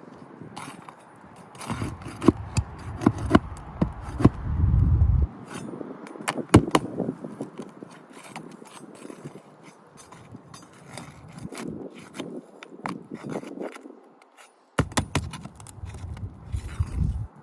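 Flat pry bar scraping and knocking against brittle three-tab asphalt shingles as their seals are broken to free a shingle for replacement, with many sharp clicks and taps. Low rumble on the microphone twice, from about two to five seconds in and again near the end.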